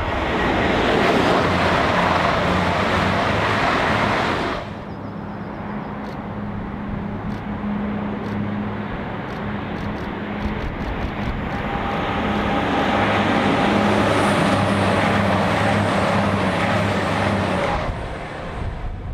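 Diesel passenger trains passing at speed: a steady diesel engine hum under wheel-on-rail noise. The sound drops abruptly about four and a half seconds in, then grows louder from about twelve seconds as another train draws near, and cuts off shortly before the end.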